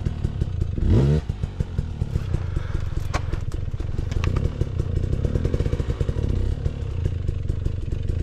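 Dirt bike's single-cylinder four-stroke engine, a KTM 500 EXC-F, blipped once about a second in and otherwise running low and steady. Two sharp clacks of rock or metal come about three and four seconds in.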